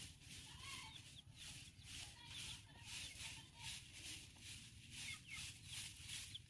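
Faint short peeps from baby white-breasted waterhen (dahuk) chicks, over a steady pulsing hiss that repeats about three times a second.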